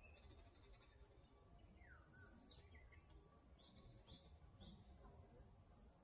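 Birds calling in woodland: a downward-sliding call about two seconds in, which is the loudest moment, then a few short high chirps. A faint, steady high-pitched hiss runs underneath.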